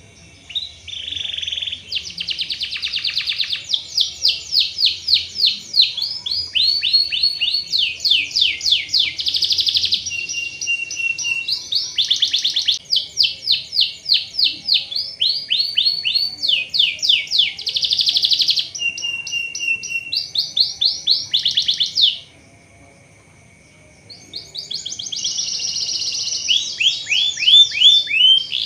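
Domestic canary singing: fast trills of rapidly repeated high syllables in phrase after phrase, breaking off for about two seconds near the end and then starting again.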